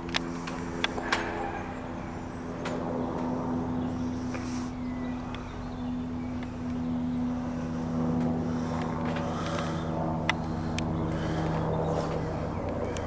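Leonardo AW109SP GrandNew twin-engine helicopter flying past: a steady drone of rotor and turbines whose pitch shifts slowly as it gradually grows louder. A few sharp clicks sound near the start and once about ten seconds in.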